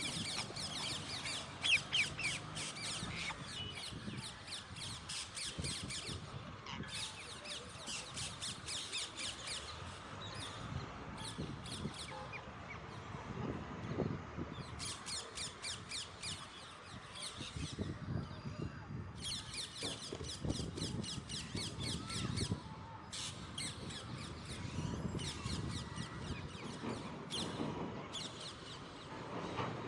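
Alexandrine parakeets giving harsh, rapid chattering calls in runs of a few seconds broken by short pauses.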